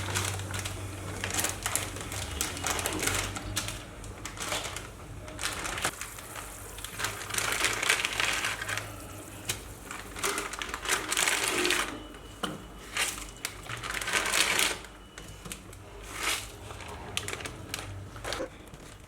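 Close-up eating sounds: chewing, lip smacking and slurping of food in irregular bursts, with sharp clicks among them.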